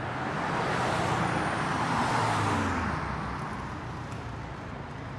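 A road vehicle driving past: engine and tyre noise swell to a peak about two seconds in, then fade away.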